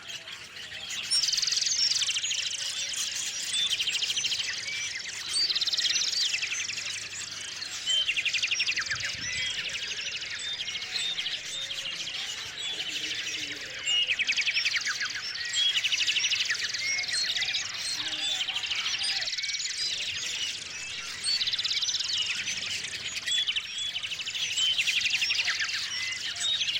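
Small songbirds chirping and calling together in a busy chorus, with a louder trilled song phrase coming again every few seconds.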